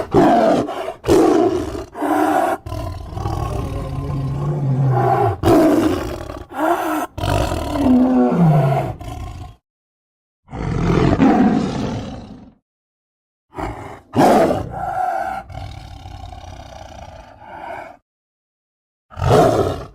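A series of roar and growl sound effects, each burst cut off cleanly and followed by a short silence, one sliding down in pitch near the middle.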